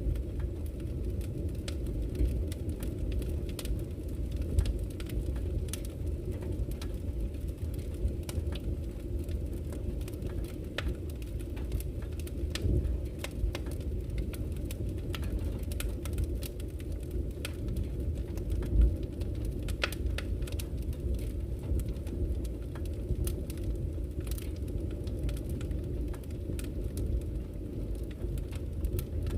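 Wood campfire crackling, with frequent irregular sharp pops and snaps, over a steady low rush of flowing river water. One louder pop comes about two-thirds of the way through.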